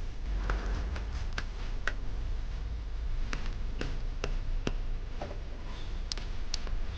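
Sharp clicks and light taps from hands working on a small lighter, about one or two a second, over a low steady hum.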